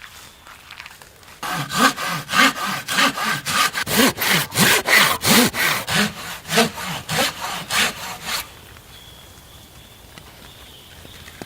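Hand saw cutting through wood in steady back-and-forth strokes, about three a second, stopping about eight seconds in.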